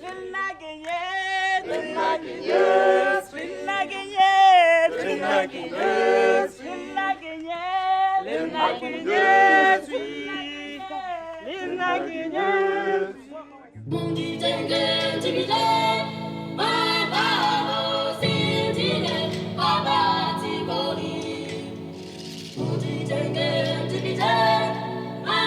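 Unaccompanied singing voices. About fourteen seconds in, fuller choral music takes over, many voices over a steady low bass.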